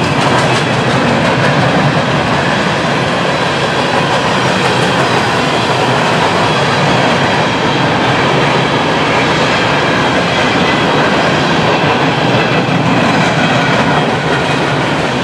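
Empty coal cars of a CSX unit coal train rolling by: loud, steady noise of steel wheels on the rail, a little fainter near the end.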